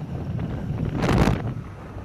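Wind buffeting the microphone as a steady low rumble, with a stronger gust about a second in.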